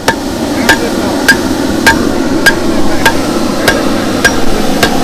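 Forging hammer striking hot steel on an anvil in a steady, even rhythm of about nine blows, roughly 0.6 s apart, each with a short metallic ring, over a steady rushing background noise.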